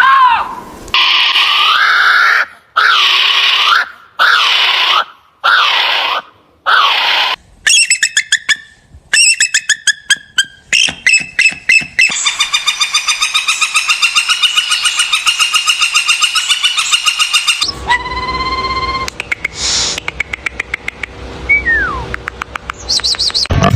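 A run of different animal calls, mostly bird-like, edited one after another. It opens with arching rising-and-falling calls and about six harsh calls of roughly a second each. These give way to rapid clicking trills, then a long unbroken fast trill of about six seconds, and finally a few separate whistles, one of them falling in pitch.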